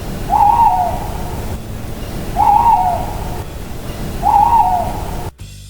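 Owl hooting three times, about two seconds apart, over steady low background noise that cuts off shortly before the end.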